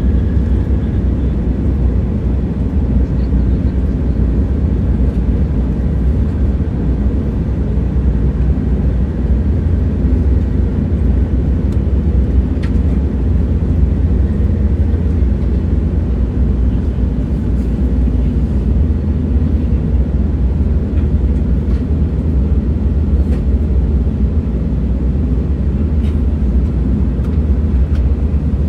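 Steady low rumble of a moving train, with a few faint clicks here and there.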